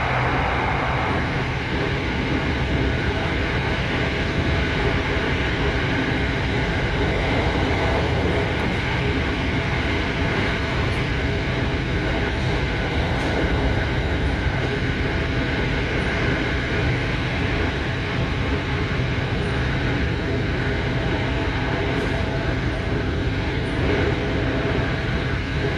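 Electric commuter train of the SRT Light Red Line running at a steady pace, a continuous rumble of wheels and motors with a faint steady hum.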